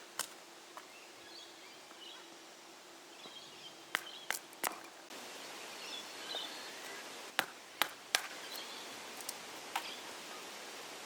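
Sharp snaps and clicks at irregular intervals, some in quick pairs, over an even outdoor hiss with faint bird calls behind.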